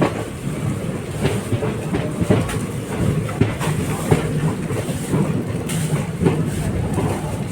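Express train's ICF passenger coaches running on the track: a steady low rumble of wheels on rails with irregular clicks and clacks.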